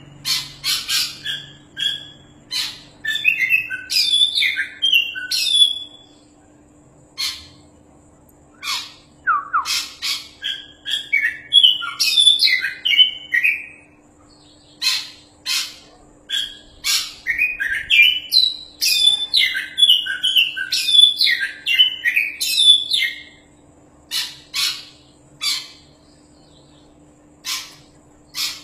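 Oriental magpie-robin (kacer) singing vigorously: rapid bursts of varied whistled phrases mixed with harsh rasping notes, broken by short pauses of one to three seconds.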